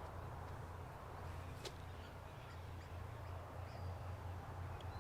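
Steady low rumble of distant road traffic, with a single sharp click a little under two seconds in and a faint bird call near the end.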